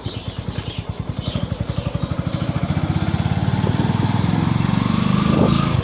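Single-cylinder motorcycle engine running as the bike pulls away, its firing pulses growing faster and louder as it gathers speed.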